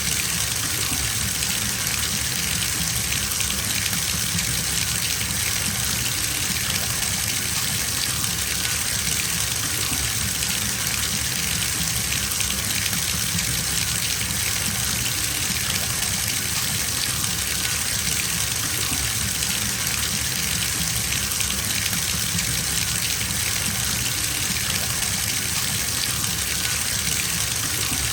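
Water running steadily from a tap into a filling bathtub, an even rushing splash.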